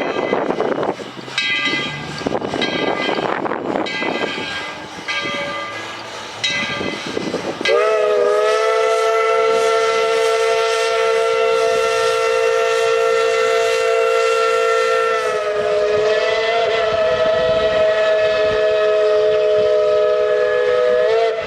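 Steam whistle of Tweetsie Railroad's 4-6-0 steam locomotive No. 12 giving one long blast of several notes at once, held about thirteen seconds with a slight dip in pitch midway. Before it, bursts of rushing noise.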